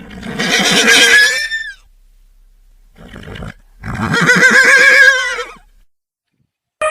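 Horse whinnying twice, each call lasting well over a second, the second with a quavering, wavering pitch.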